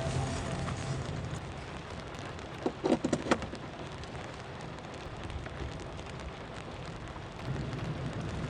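Steady rain falling, with a short clatter of several sharp knocks about three seconds in.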